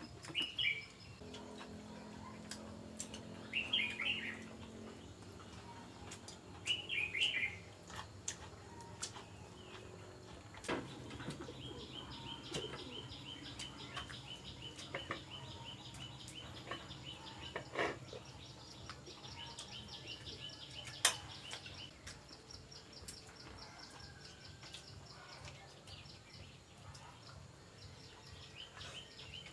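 Birds chirping: three short high calls in the first eight seconds, then a long rapid, evenly pulsed trill lasting several seconds. A few sharp clicks cut in, the loudest about 21 seconds in.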